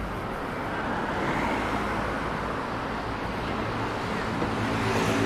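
Street traffic: cars passing, with a steady road noise that swells about a second in. Near the end a vehicle's engine hum comes in close and grows louder.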